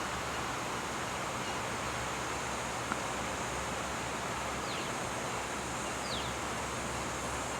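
Steady outdoor background hiss, with a faint high steady hum above it, a small click about three seconds in, and two short high falling chirps after the middle.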